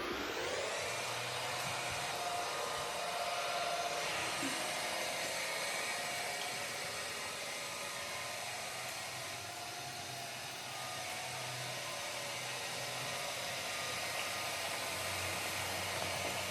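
Ecovacs Deebot N8+ robot vacuum running: a steady whir with a faint whine that drifts slightly in pitch.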